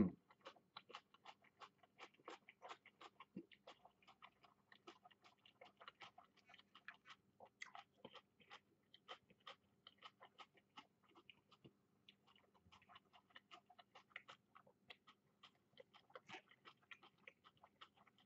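Faint close-up chewing of a mouthful of cracked pepper chicken: soft, wet mouth clicks about three times a second, with one louder click at the start.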